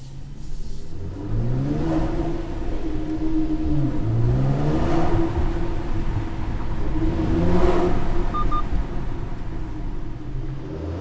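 2019 Mercedes-AMG C43's twin-turbo V6 through its AMG Performance Exhaust, revving and accelerating, its pitch climbing and dropping several times, echoing off the walls of an underground car park.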